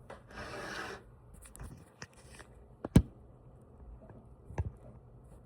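Handling noises in a small room: a short rustle near the start, a few light clicks, then a sharp knock about three seconds in and a softer one near the end.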